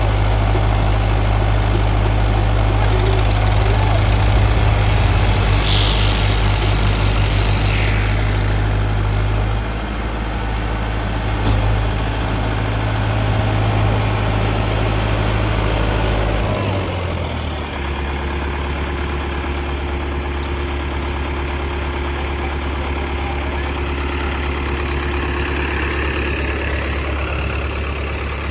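Tractor diesel engines running steadily. About seventeen seconds in the engine note changes and settles to a lower, steady hum.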